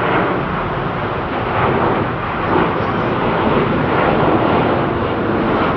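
Jet airliner engines at takeoff power: a loud, steady rumbling roar of a departing aircraft.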